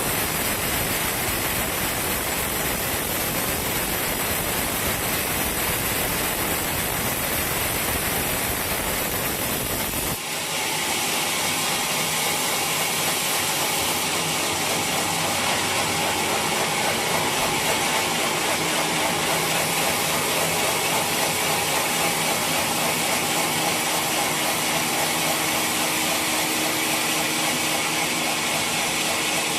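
Sawmill machinery running steadily, a dense mechanical noise. About ten seconds in the sound changes abruptly: the low rumble drops away and a steadier, higher machine tone carries on.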